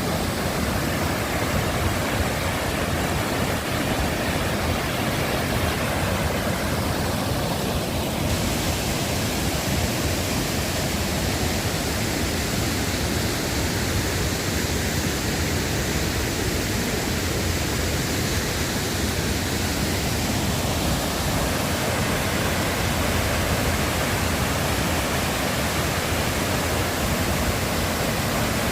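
Bad Gastein waterfall's water rushing in a steady, loud roar, its hiss turning brighter about eight seconds in.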